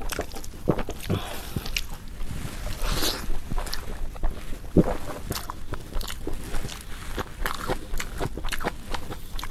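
A person chewing and biting crunchy food close to the microphone: irregular crunches and wet mouth clicks.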